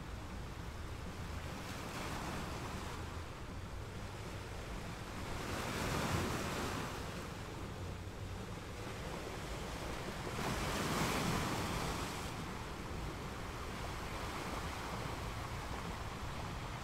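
Sea waves breaking on a shore: a steady surf wash with two waves swelling and breaking, about six and eleven seconds in.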